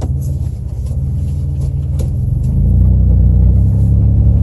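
Car engine and road rumble heard from inside the moving vehicle, a steady low drone that grows louder a little past halfway through, with a few faint clicks.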